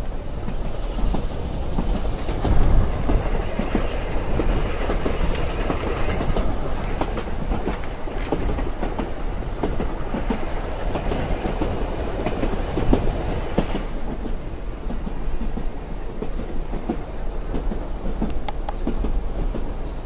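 Train wheels running on rails, heard from inside a passenger carriage: a steady rumble with a clickety-clack of the wheels over the rail joints. There is a louder jolt about two and a half seconds in. A hiss rides on top from about a second in and fades away after about fourteen seconds.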